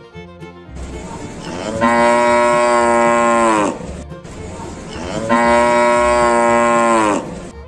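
Cow mooing: two long moos, each holding a steady pitch and then falling away at the end.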